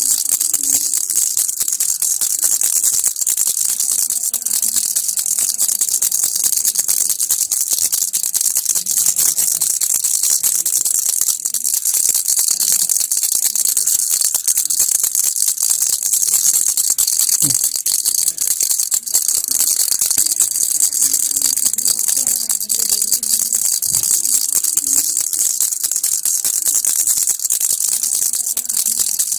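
Baby rattle (kilukki) shaken continuously, its beads making a dense, steady rattling without pauses.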